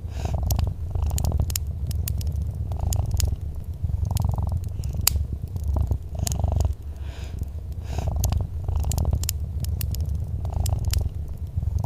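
Domestic cat purring in a low continuous rumble that swells and eases in a slow rhythm with its breaths. Over it come scattered sharp snaps and crackles of a wood fire.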